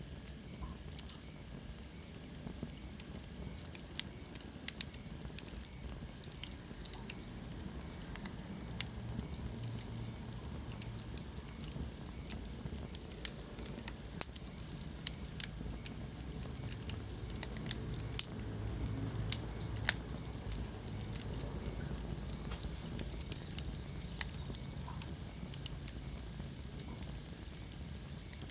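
Wood fire burning in a fireplace: irregular sharp crackles and pops, a few louder snaps, over a steady low rumble.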